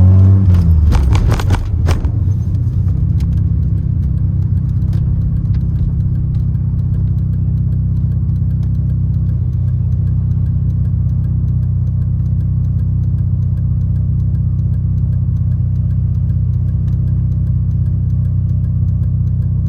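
Mazda RX-7's turbocharged 13B two-rotor rotary engine, its note falling as the revs drop at the start. A quick cluster of sharp clicks comes about one to two seconds in. It then settles into a steady, even drone.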